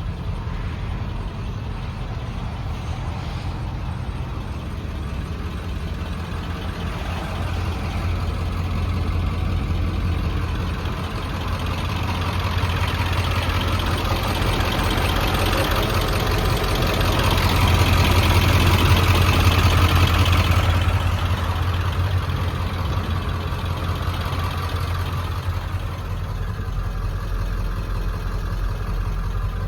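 1999 Ford F-450 truck engine idling steadily, swelling louder through the middle and easing back to its earlier level about two-thirds of the way through.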